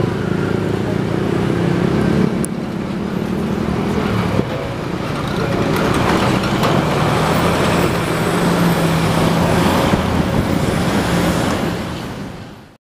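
Freight train of empty railway tank wagons rolling away over the track, a steady rumble of wheels on rail with a low hum and a couple of sharp clicks. The sound fades out near the end.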